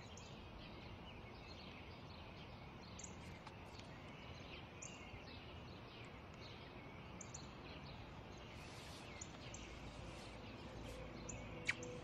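Faint outdoor ambience: a steady low hiss with scattered short chirps of small birds, and one brief sharp sound near the end.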